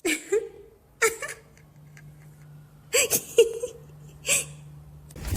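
A cat giving short, whimpering mews, about five of them, each well under half a second, over a faint steady low hum.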